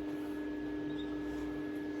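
Steady hum with a thin high whine from an idle stick welder, its arc off between weld runs.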